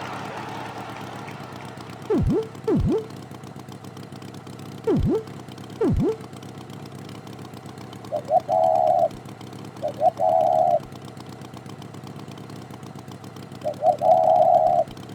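Cartoon sound effects: four quick swooping sounds that dip in pitch and rise again, in two pairs, then three horn-like honks, each a couple of short blips followed by a held tone of about a second.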